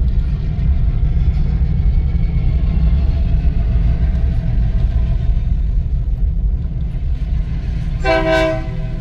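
Steady low road rumble from inside a moving car, with one short horn toot about eight seconds in.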